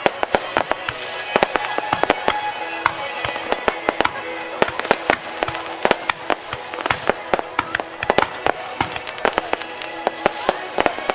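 Aerial fireworks bursting at close range: a dense, irregular run of sharp bangs and crackles that goes on without a break.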